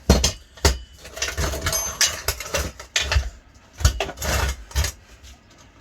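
A series of sharp knocks with rattling and scraping between them, from metal lathe parts being handled and set down.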